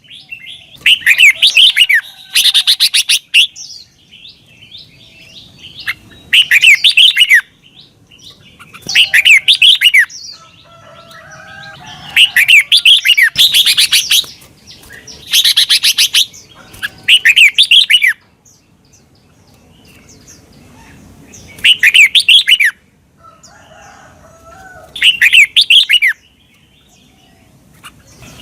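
Red-whiskered bulbul singing: short, loud warbling phrases repeated every two to three seconds, about nine in all, with fainter chirps between them.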